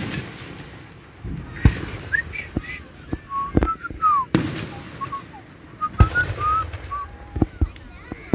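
Fireworks going off in a rapid, uneven series of bangs, with short high whistles sounding between the bursts for a few seconds.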